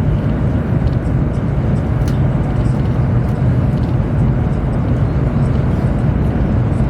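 Steady low rumble and rushing noise of a Chinese high-speed train running along the line, heard inside the passenger cabin.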